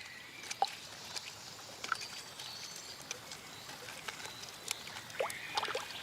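Faint water sounds at the water's edge: soft splashing and patter with scattered small ticks and clicks, and a few brief high chirps.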